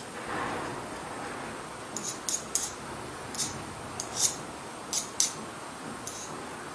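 Light, sharp clicks of small plastic parts and a hand tool being handled while the front caster wheel of a robot vacuum is worked on, about eight of them, spread unevenly over a faint steady hiss.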